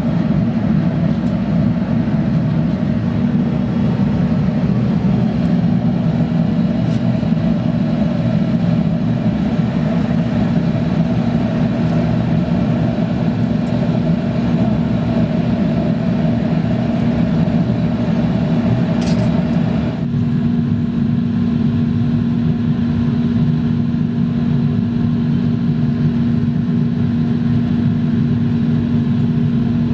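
A motor-driven machine running steadily with a constant hum. A higher-pitched part of the sound cuts off suddenly about two-thirds of the way through, while the hum goes on.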